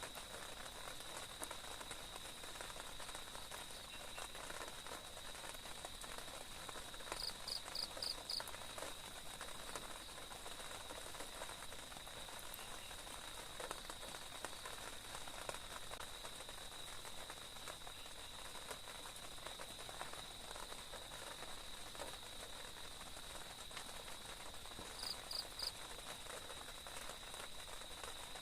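Forest insects calling: a steady high insect drone, with short runs of quick chirps, four in a row about seven seconds in and three near the end, over faint background hiss.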